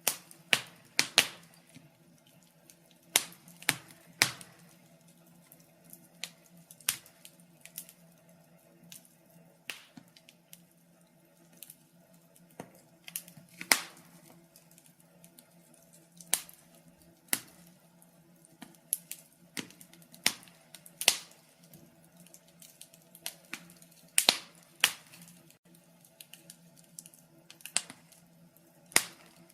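Wood fire crackling: sharp, irregular pops and snaps, a few every couple of seconds, over a faint steady low hum.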